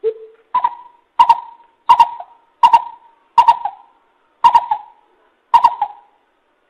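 Coucal (bubut) calling: a short low note, then a steady series of about seven deep hooting notes, roughly one and a half per second.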